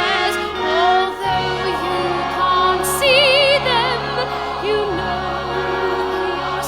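Slow musical-theatre ballad: a woman singing sustained notes with a wide vibrato over orchestral accompaniment, with a low bass line coming in about a second in.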